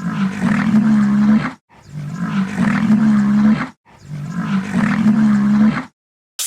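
A large animal's loud, low-pitched roaring call, the same call heard three times in a row, each cut off abruptly.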